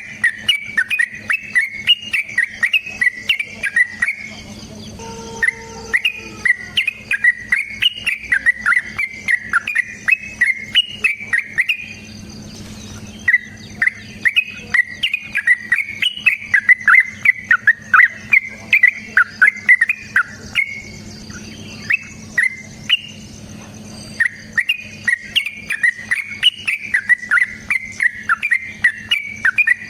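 Yellow-vented bulbul (trucukan) singing long runs of rapid chirping notes, in phrases several seconds long broken by short pauses. A faint steady low hum and a faint high insect-like buzz lie beneath.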